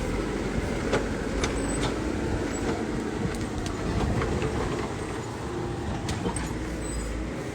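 Heavy tractor engine running steadily under load, with scattered clanks and knocks over the drone.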